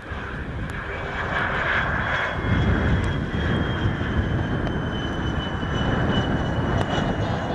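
Jet aircraft engines running close by: a low rumble swells about two and a half seconds in and holds, with a thin high whine sliding slightly down in pitch.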